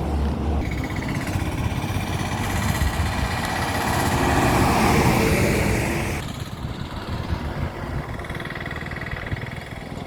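Highway road traffic: engines and tyres of passing vehicles. The noise swells as one vehicle passes close, loudest about four to five seconds in, and drops off sharply soon after.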